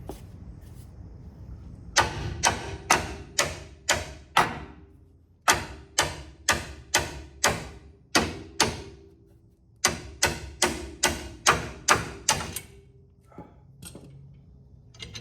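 Hammer blows on steel truck front-end parts, about two a second in three runs of six or seven strikes with short pauses between, each blow ringing briefly: knocking a stuck suspension part loose.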